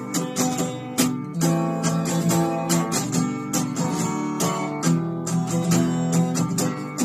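Belucci 3810 acoustic guitar strummed in a steady rhythm of chords, with no singing.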